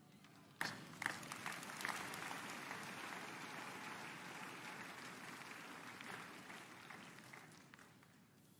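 Audience applauding. The clapping starts abruptly about half a second in, holds steady, then dies away near the end.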